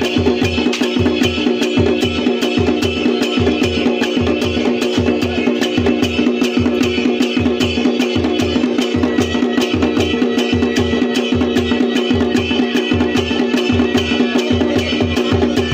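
Kumaoni chhaliya band playing folk music: drums beating a fast, steady rhythm under a continuous held drone.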